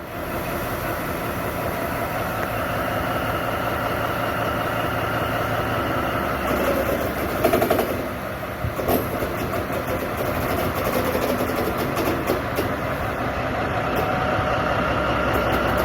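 Diesel locomotive engine running steadily, with a few short louder clanks about seven to nine seconds in.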